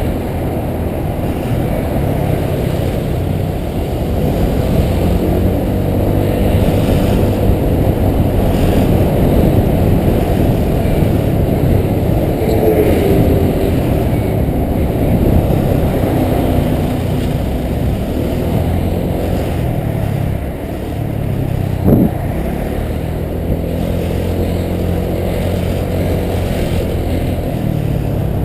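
Honda PCX 125 scooter's single-cylinder four-stroke engine running and pulling away in stop-and-go traffic, muffled, with wind and road noise mixed in. A short knock about twenty-two seconds in.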